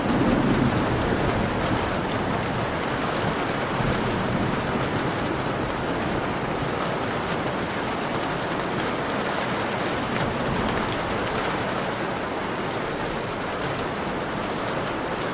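Steady rain falling and pattering on a window, with scattered drop ticks and a faint low rumble in the first second.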